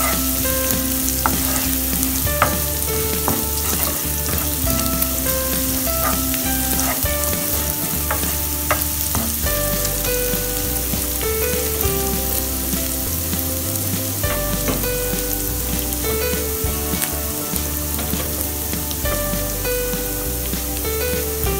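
Minced garlic sizzling in hot oil in a nonstick frying pan, stirred and scraped with a wooden spoon, with short clicks of the spoon against the pan. Soft background music with held notes plays underneath.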